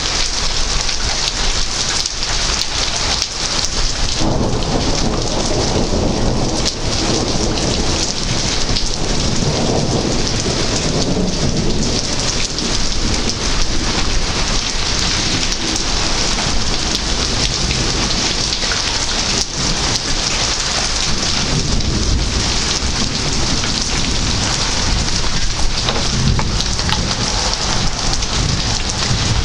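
Heavy rain falling steadily, with a long roll of thunder rumbling in about four seconds in and dying away over several seconds; fainter rumbles follow later.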